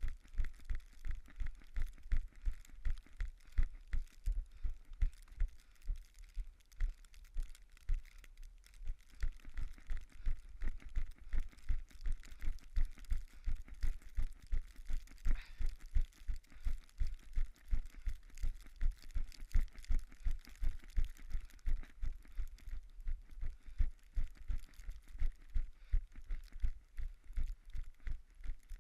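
A runner's footsteps in snow, a steady rhythm of dull thuds about three a second, over a faint hiss.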